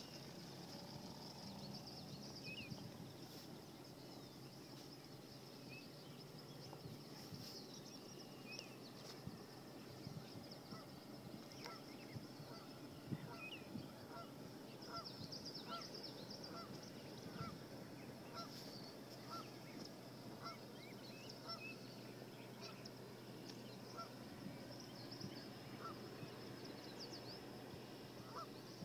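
Birds calling: a run of short, evenly spaced calls, a little more than one a second, through the middle, with scattered higher chirps over a faint steady high hiss.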